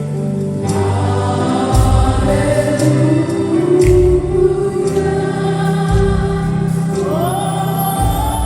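Live gospel worship music: sustained keyboard chords over a bass note that changes about every two seconds, with light cymbal strokes. Choir voices sing long, held notes, rising in pitch near the end.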